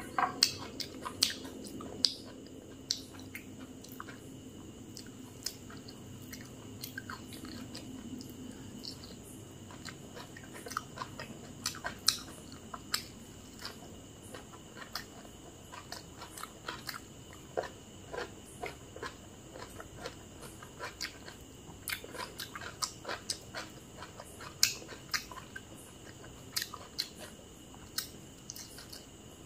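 Close-miked eating sounds: a person chewing and biting food, with many small, sharp mouth clicks and smacks and an occasional crunch, several a second.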